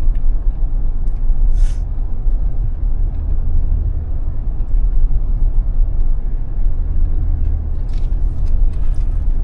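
Steady low rumble of a moving vehicle, with a brief hiss about a second and a half in and again near the end.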